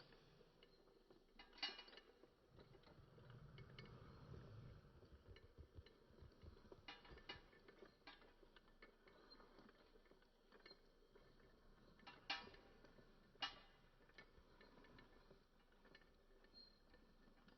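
Faint clicking and light rattling of a small die-cast metal toy truck being handled and its parts worked, with three sharper clicks standing out.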